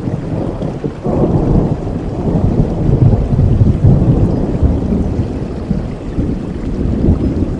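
Steady rain with a long, low rumble of thunder that swells about a second in and fades near the end.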